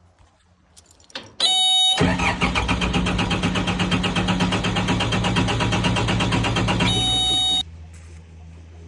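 Case 1840 skid steer's Cummins diesel being started: a warning buzzer sounds, the starter cranks the engine with a fast, even rhythm for about five seconds, the buzzer sounds again, and the engine catches and settles to a steady low idle. It starts now that the air has been bled out of the fuel lines.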